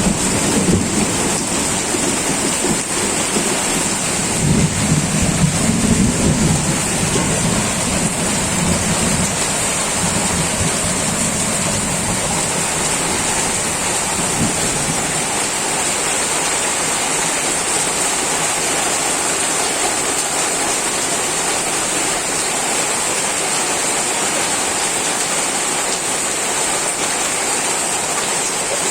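Heavy rain falling steadily, with low rumbles of thunder during roughly the first third.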